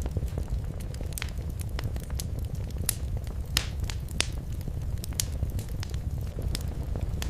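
Wood fire crackling in a fireplace: a steady low rumble of the flames with irregular sharp pops and snaps, a few louder ones about three to four seconds in.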